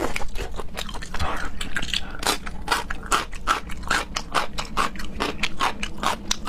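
Close-miked eating: wet chewing and biting with a quick, irregular run of crisp clicks and crunches, several a second.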